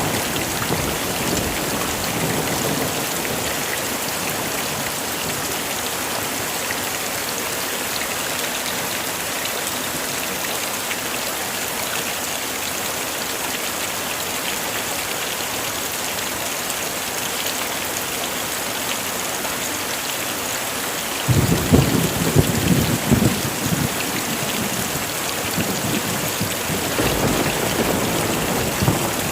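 Heavy rain falling steadily. About two-thirds of the way through, a sudden clap of thunder rumbles for a few seconds, and a fainter rumble of thunder follows near the end.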